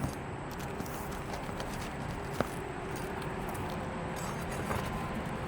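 Steady low background noise with a single sharp tap about two and a half seconds in and a few faint clicks later, from hand work pulling nails and lifting asphalt roof shingles.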